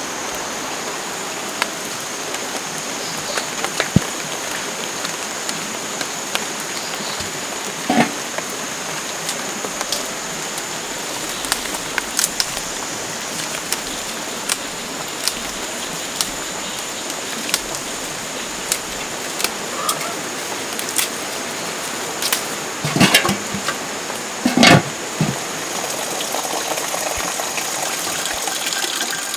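Steady hiss of rain falling on garden foliage, with a thin, steady high-pitched whine above it and scattered light clicks. A few louder knocks come near the end.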